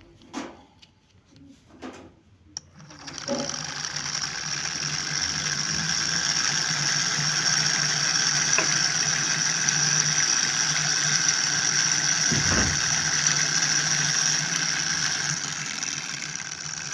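A few handling clicks, then a small battery-powered DC motor starts about three seconds in and runs steadily, whirring through the toy tractor's plastic gears, with a single knock near the end of the run.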